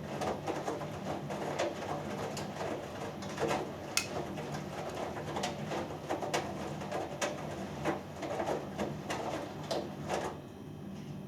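Hoover Dynamic Next front-loading washing machine in its main wash: the drum turns with a steady motor hum while water and laundry slosh and drop in irregular swishes and soft knocks. The sound goes quieter about ten seconds in.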